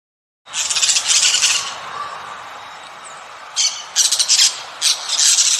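Bird squawking: harsh, high, raspy calls, one long call about half a second in, then a run of shorter squawks in the second half.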